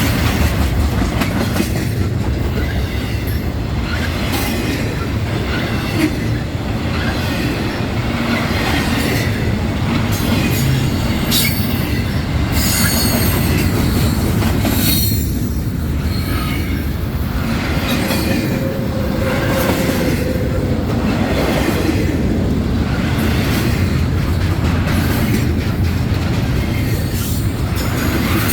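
Freight train rolling past, steel wheels rumbling over the rail joints with clickety-clack and now and then a wheel squeal.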